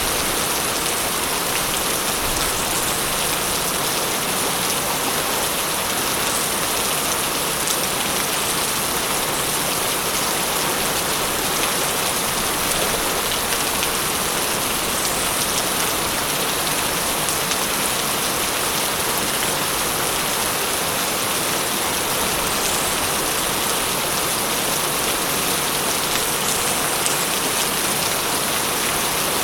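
Steady rain: an even, unbroken hiss with faint scattered drop ticks through it.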